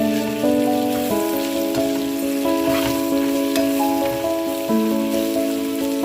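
Vegetables sizzling as they fry in a pan, with a few light clicks of stirring, under background music of held melodic notes.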